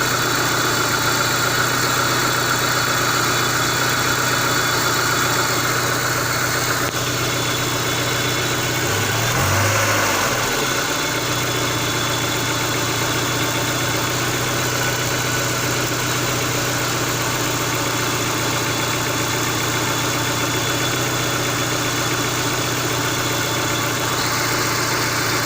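Engine idling steadily, with a brief wavering change in its pitch about ten seconds in.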